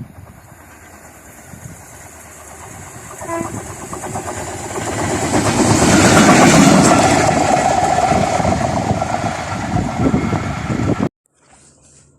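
A train approaching and passing close by: a rumble and rush that builds, peaks about halfway through and stays loud, then cuts off abruptly near the end.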